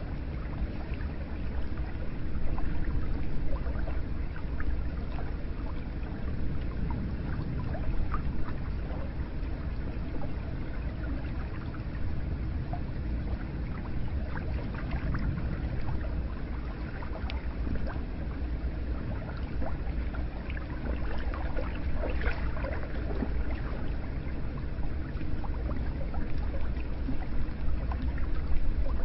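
Hot spring water flowing and pouring steadily into a bath, with many small splashes and drips throughout.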